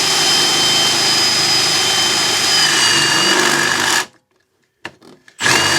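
Milwaukee power drill running a bit into a fence-post cap: a steady motor whine that sags slightly under load, then stops abruptly about four seconds in. A second short burst of the drill follows near the end.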